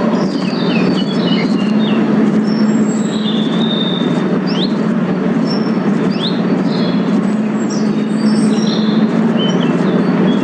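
A loud, steady low drone with a constant hum, and birds chirping over it in short calls and quick whistled sweeps.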